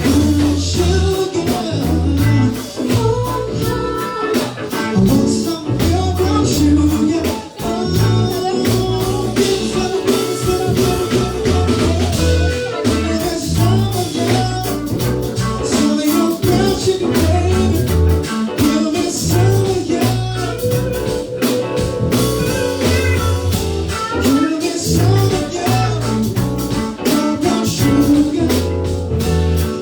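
A band playing a blues-rock cover song: a singer over electric guitar, bass and drum kit, with a steady beat.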